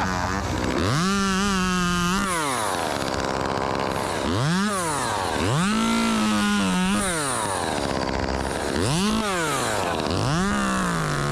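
Chainsaw engine revved to full throttle and let back to idle five times: three held bursts of a second or more, alternating with two quick blips.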